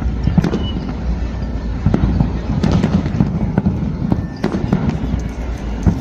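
Fireworks display going off: a continuous low booming of shell bursts with many sharp cracks scattered throughout.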